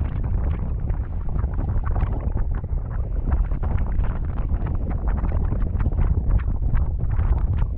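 Wind buffeting the camera microphone in paraglider flight: dense, steady low-pitched wind noise broken by rapid crackles from gusts hitting the mic.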